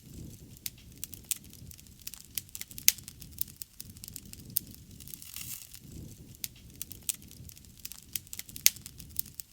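Wood fire burning, with irregular sharp crackles and pops over a soft low rumble of the flames; the loudest pops come about three seconds in and near the end.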